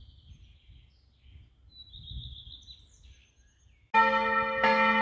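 Faint bird chirps for about four seconds, then a bell starts ringing loudly and suddenly, struck again roughly once a second with the tones ringing on between strokes.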